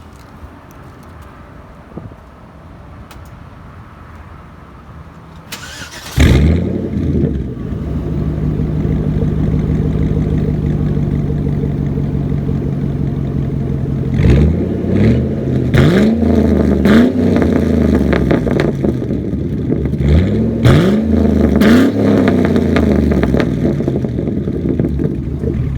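2008 Chevrolet Trailblazer's 5.3 L V8 with straight-piped exhaust from the cat-back, catalytic converters kept. About six seconds in it cranks briefly and starts with a loud flare, then settles into a steady idle. It is then revved in two sets of quick blips, about four and then three, each rising and falling back to idle.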